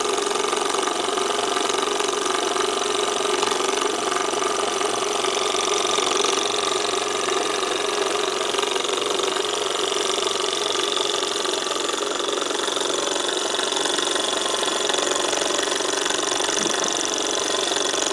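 Davies Charlton hot air engine running steadily and evenly on its gas burner, at higher revs from the extra pressure in its freshly topped-up gas bottle.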